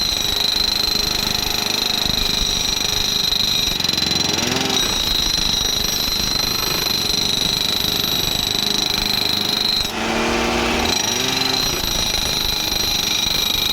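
Powered ballast tampers rattling continuously as they pack ballast under railway sleepers, with a steady high whine. The sound dips briefly about ten seconds in.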